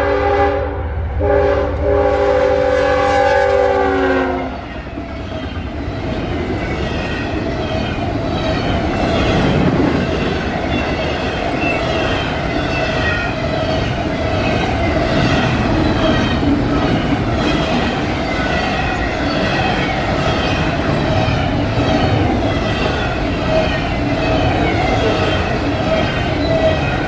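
Freight train diesel locomotive horn sounding a multi-note chord that drops in pitch as the lead unit passes, about four seconds in. Then the double-stack intermodal cars roll past with a steady rumble and rhythmic wheel clatter.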